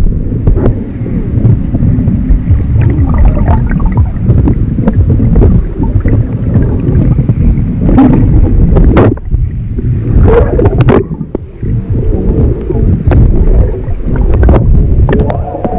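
Heavy wind rumbling and buffeting the microphone aboard a moving boat, with rushing water noise underneath and a few sharp knocks in the second half.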